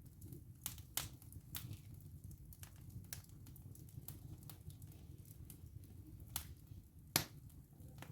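Wood fire burning in a fireplace: a low, steady rumble of the flames with sharp, irregular cracks and pops from the burning wood, the loudest crack about seven seconds in.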